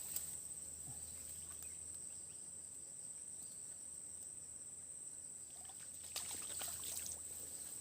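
Steady high-pitched insect drone, with a few light knocks and rustles near the start and again after about six seconds.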